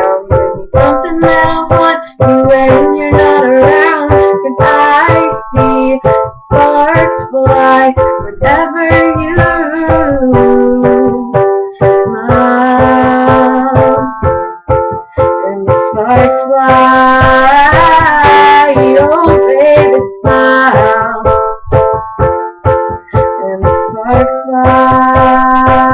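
Piano playing steady repeated chords.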